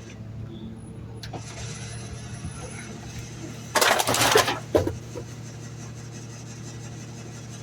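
Garbage truck's diesel engine running steadily. About four seconds in, a loud burst of rushing noise lasts under a second, with a shorter one just after.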